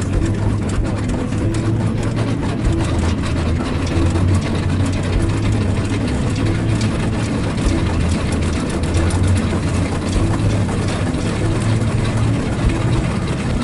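Engine of a rail vehicle running steadily, with a low hum and light clicks and rattles throughout.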